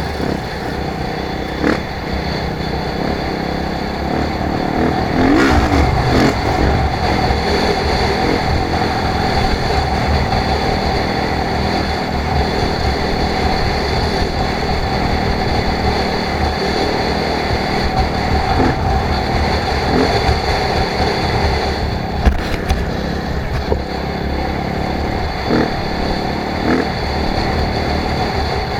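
Off-road motorcycle engine running under way, steady with small rises and falls in revs, with a few short knocks and clatters.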